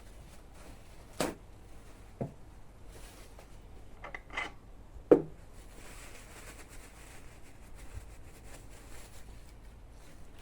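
A few scattered knocks and clatters of objects being handled, the loudest about five seconds in, over faint steady hiss.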